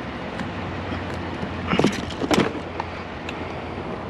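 A vehicle engine idling steadily, with two short knocks about two seconds in.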